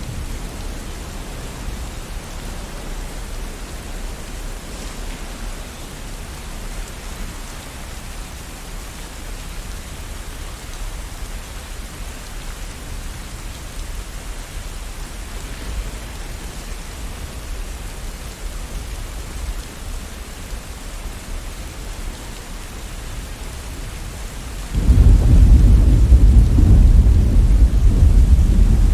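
Steady rain with a thunderstorm: an even hiss of rainfall over a low rumble of thunder, and a loud, deep roll of thunder breaking in about 25 seconds in and rumbling on.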